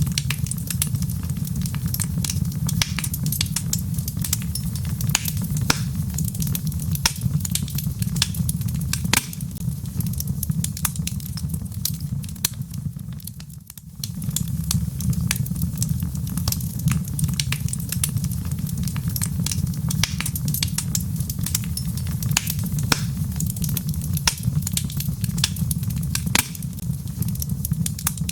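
Wood fire in a fireplace crackling, with many sharp pops over a low, steady rumble of the flames. The sound briefly dips about halfway through, then resumes.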